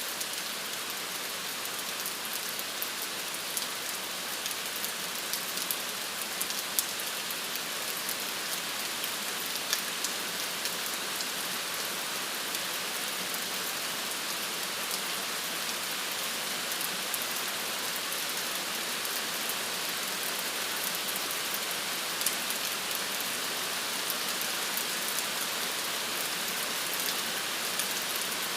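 Steady rain falling, an even hiss with scattered sharper drop impacts ticking through it.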